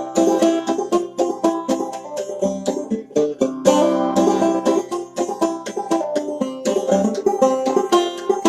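Five-string banjo played in the old-time clawhammer style, a quick, steady run of plucked notes.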